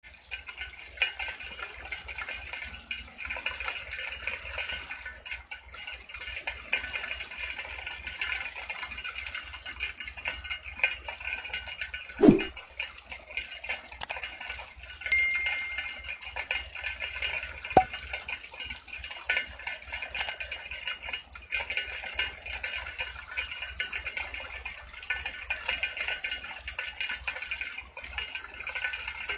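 Steady rain falling, with scattered sharp drips and knocks and one louder thud about twelve seconds in.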